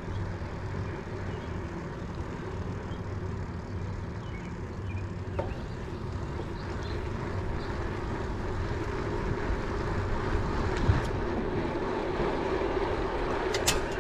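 Steady wind and tyre noise from riding a bicycle on a paved street, growing a little louder through the second half, with a small knock about eleven seconds in.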